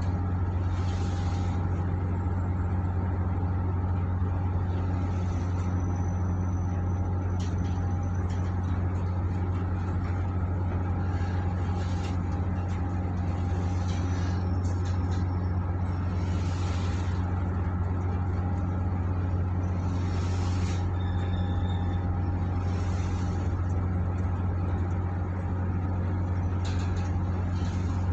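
Supply ship's engines running under way with a steady, deep drone, heard on board, with a few brief hissing swells over it.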